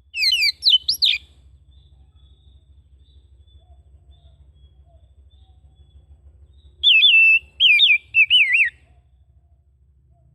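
Oriental magpie-robin (kacer) singing: two short bursts of quick whistled notes that swoop sharply up and down, the first right at the start and the second about seven seconds in.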